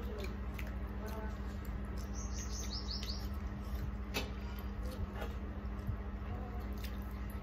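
A small bird gives a quick run of about six high, falling chirps about two seconds in. Under it, scattered soft clicks and squishes of hands mixing rice on steel plates, over a steady low hum.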